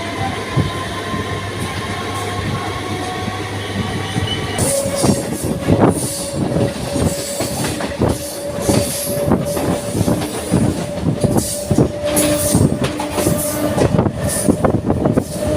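MEMU electric train running on the rails; about four and a half seconds in, the wheels start clattering rapidly over rail joints with a steady high wheel squeal.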